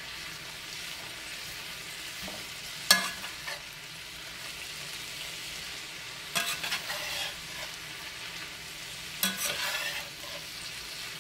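Shredded cabbage and onions sizzling in a cast-iron skillet, with a steady frying hiss. A metal slotted spoon stirs through it, scraping and knocking against the pan three times.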